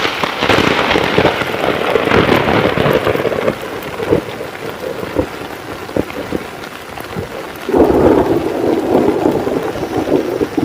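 Heavy rain falling during a thunderstorm. A sharp thunderclap comes right at the start, followed by a few seconds of rumbling, and another loud surge of thunder comes about eight seconds in.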